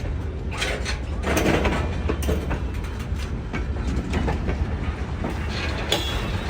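Train cars rolling past close by, a steady low rumble with irregular clanks and clicks of the wheels on the rails.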